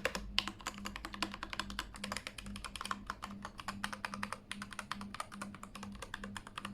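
Keychron K8 mechanical keyboard with its stock keycaps being typed on quickly and steadily: a fast, continuous run of key clicks, played as a typing sound test.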